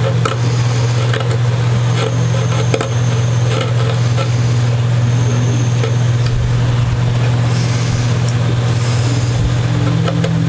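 A steady low machine hum, with scattered light clicks and taps.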